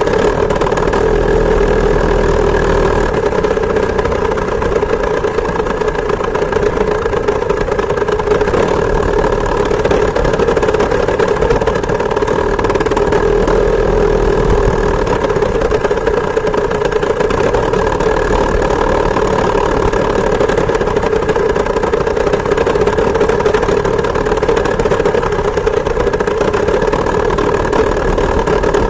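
Two-stroke chainsaw engine driving a homemade moped, running at a steady, nearly constant speed.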